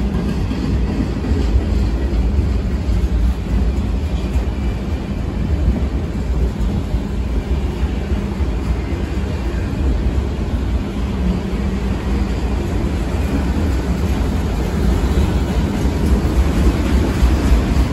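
Train rolling past, a steady heavy rumble that swells slightly near the end.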